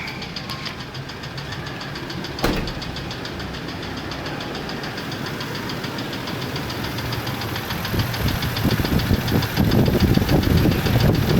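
2000 Ford F-150 engine running with a fast, even, rhythmic knock that grows louder from about eight seconds in. There is a single sharp click about two and a half seconds in. The mechanic suspects valve-train damage, such as a broken rocker, at 180,000 miles.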